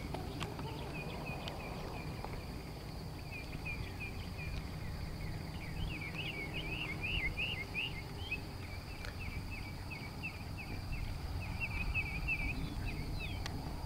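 Outdoor ambience: a bird chirping over and over in quick short notes, busiest about halfway through, over a low steady rumble.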